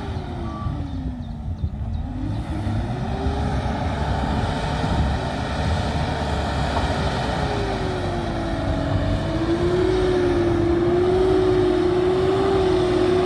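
Sherp 10x10 truck's engine running while its tires are being pumped up. Its note dips low in the first two seconds, climbs back, then wavers and settles into a steady pitch for the second half.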